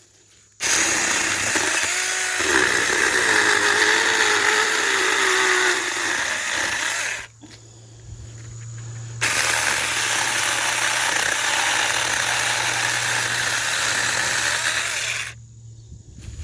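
Small 4-inch cordless electric chainsaw running in two long bursts with a short pause between, its motor pitch wavering and dipping as it works.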